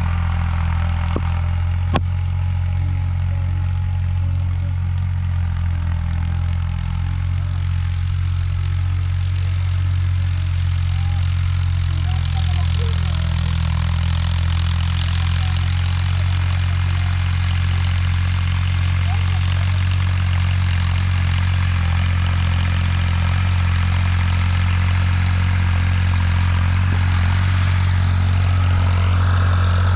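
Heavy diesel machinery engine running steadily at a low, even drone, with a single click about two seconds in.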